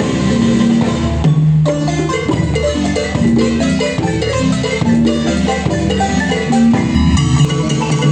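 Marimba band playing an instrumental dance tune, quick mallet notes over drums and bass.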